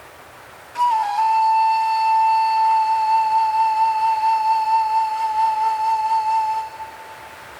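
A single long flute note over a soft, steady wind hiss. The note starts about a second in with a short dip in pitch, is held with a gentle vibrato for about six seconds, then dies away near the end.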